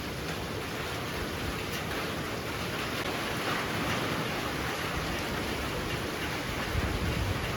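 Heavy rain falling steadily, with wind; a low gust swells up near the end.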